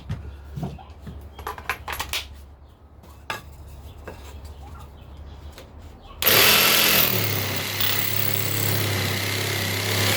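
Small parts and screws being handled with light clicks and knocks, then a handheld power drill starts suddenly about six seconds in and runs steadily for about four seconds, driving screws into the wooden birdhouse.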